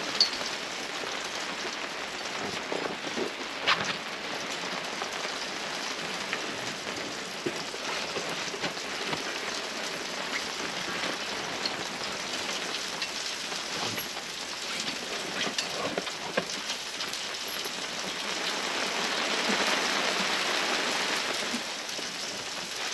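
Steady rain falling, with scattered louder drops ticking. The rain swells briefly near the end.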